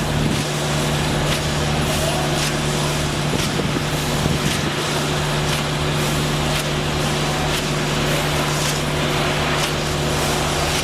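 A steady engine hum, with faint sharp ticks about once a second.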